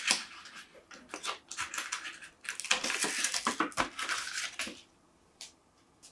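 Hard parts, likely metal, handled by hand: a quick run of clicks, clatter and scraping lasting about five seconds, then a single click.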